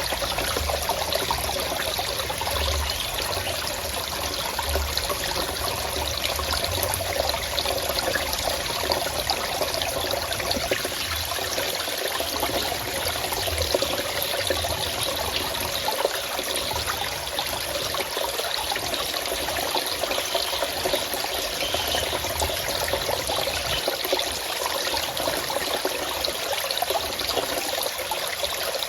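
Forest stream flowing steadily, water trickling and splashing over rocks in a constant rush, with a soft low rumble coming and going through the first half.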